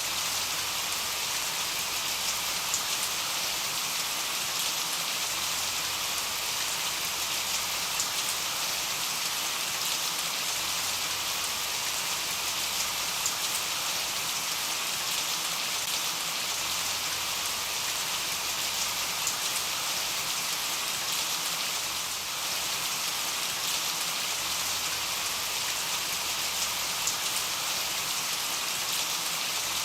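Steady rain pattering on a window: a dense, even hiss with scattered sharper drop ticks.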